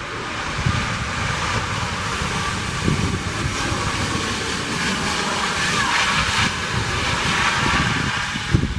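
Jet engine noise from a Boeing 737 MAX 8's CFM LEAP-1B engines, a steady roar that builds to its loudest about six to seven seconds in, with a faint falling whine near the peak. Wind buffets the microphone throughout.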